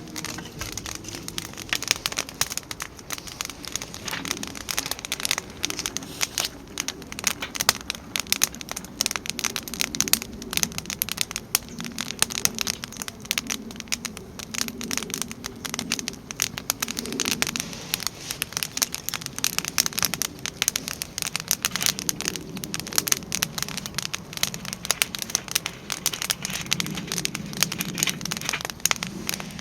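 Wood fire crackling and snapping in a steel campfire stand, a dense run of irregular pops with a low rushing sound of the flames underneath.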